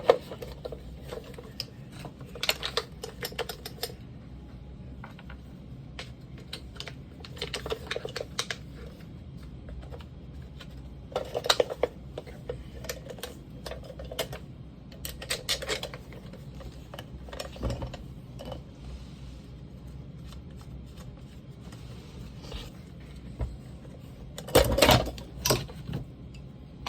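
Metal parts of a pneumatic siding nailer clicking and clattering as they are fitted back together by hand, in scattered bursts of light knocks, the loudest cluster near the end.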